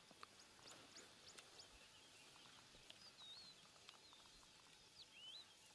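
Faint birds calling: a couple of twisting whistled notes, the clearest about halfway and near the end, among scattered short high chips over a faint hiss.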